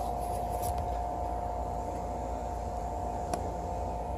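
Wind rumbling on the microphone, steady, with a constant faint tone above it and a single short click about three seconds in.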